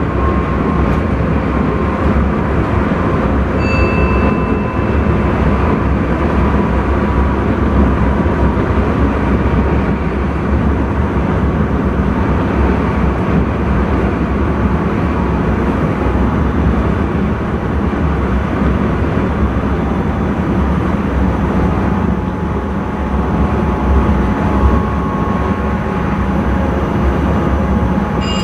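Intercity train running at speed, heard from inside the driver's cab: a steady rumble of wheels on rails with running noise. A brief high tone sounds about four seconds in.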